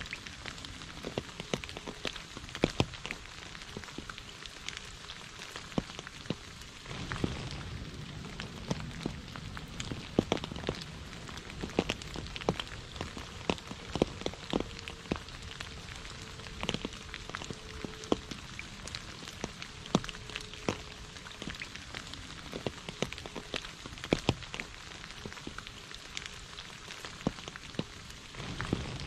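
Steady rain falling onto shallow puddles and wet leaves, with a constant hiss and many individual close drops landing as sharp ticks on the water.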